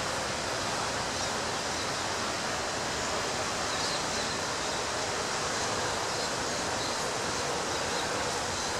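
Ocean surf washing steadily onto a beach, an even rushing noise with no single wave standing out.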